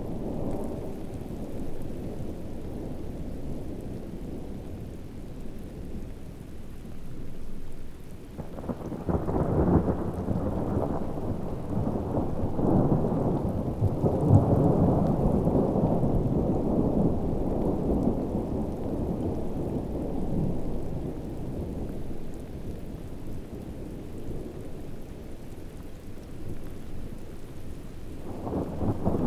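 Heavy rain in a rainforest with low, rolling thunder. A long peal swells up about a third of the way in, rumbles for around ten seconds and fades, and another begins near the end.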